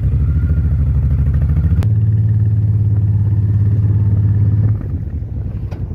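Motorcycle engine running steadily. A sharp click comes about two seconds in and the engine note changes after it; the engine falls quieter shortly before the end.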